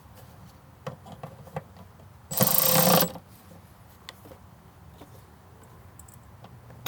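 Small clicks and handling noises from hand work on engine-bay wiring. About two and a half seconds in comes one loud, rapid ratcheting rasp lasting under a second.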